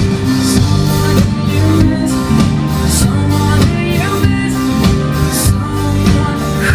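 Live pop-rock band playing with drums, guitars and bass, a singing voice faintly in the mix, heard loud through a crowd recording.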